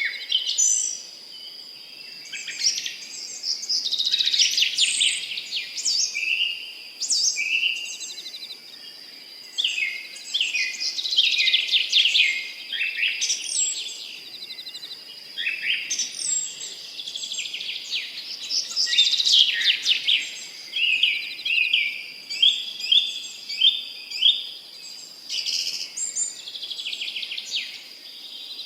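Several songbirds singing and chirping at once in overlapping quick trills and sweeping notes, over a steady thin high-pitched tone.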